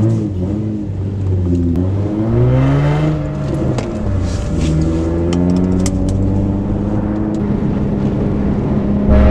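Car engine revving under a manual driver: the pitch arcs up and falls back about two seconds in, then climbs steadily under acceleration, and gets suddenly louder just before the end.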